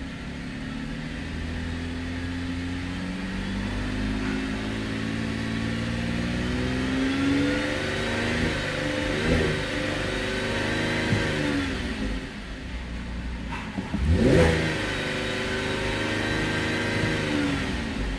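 2015 Holden Commodore's 3.0-litre V6 revved in Park, heard from inside the cabin. The revs climb slowly from idle to around 3,000 rpm and waver, then dip. About fourteen seconds in it is blipped sharply up again and held, and it eases off near the end.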